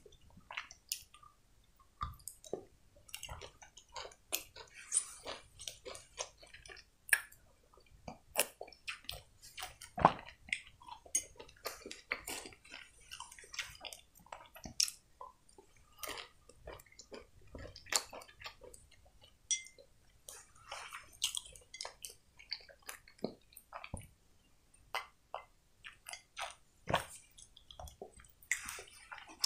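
Close-miked chewing of chocolate sweets: a person's mouth making irregular soft clicks and smacks.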